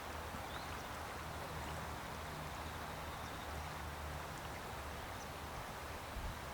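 Steady outdoor background: an even hiss with a low steady hum underneath and a few faint high ticks.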